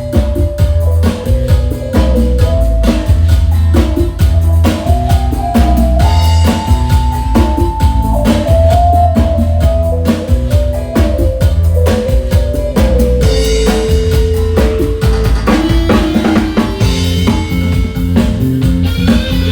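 Drum kit and electronic keyboard (organ) playing together: a busy, steady drum beat under a stepping keyboard melody, with heavy bass.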